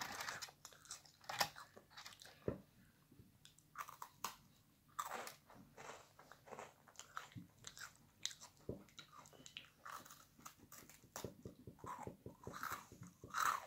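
A person biting and chewing a crisp Lotus caramelised biscuit close to the microphone: many short, irregular crunches.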